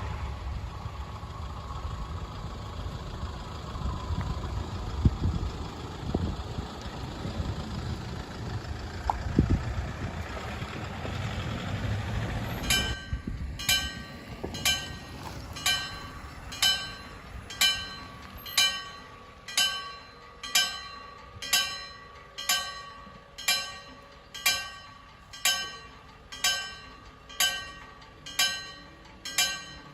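A DSB IC3 diesel train rumbles away into the distance over the first dozen seconds. Then the level-crossing warning bell starts up, ringing about once a second.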